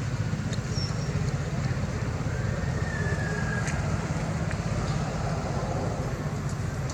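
Steady low rumble of a running motor engine, with a few faint clicks and a brief faint high squeak about two and a half seconds in.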